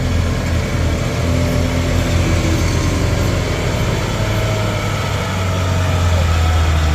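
Heavy vehicle engine running steadily close by, its sound deep and low.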